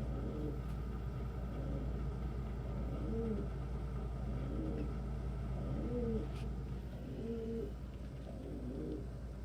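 Domestic pigeons cooing, a series of low warbling coos repeated every second or so, over a steady low hum.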